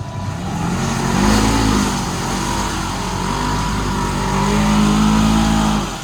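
Side-by-side UTV engine revving hard under throttle, its pitch climbing about a second in, easing off, then held high again near the end before cutting back abruptly.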